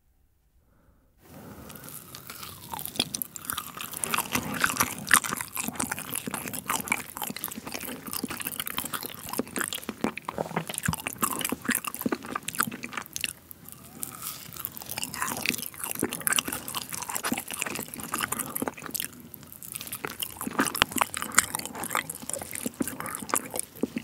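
Close-miked chewing and biting of a dense, fudgy matcha terrine: a steady stream of small mouth clicks and smacks. It starts after about a second of silence.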